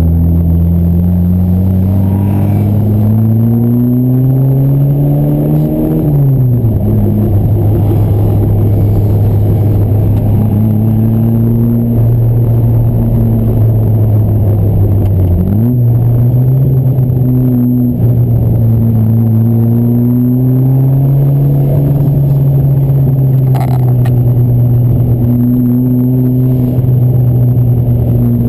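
Fiat 124 Spider 2000's twin-cam four-cylinder, with a Weber carburettor and Stebro exhaust, pulling up through the revs for about six seconds until an upshift drops the pitch. It then runs steady under load, with a quick gear change about halfway through, and afterwards rises and falls gently with the throttle.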